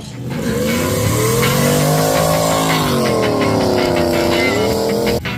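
Car engine revving. It rises in pitch over the first second and a half, holds, drops and climbs again, then cuts off abruptly near the end.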